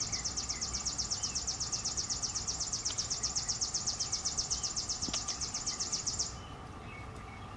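An insect calling with a high, fast pulsed trill of about seven pulses a second, which stops abruptly about six seconds in. Faint bird chirps and a steady low hum of distant insects lie underneath.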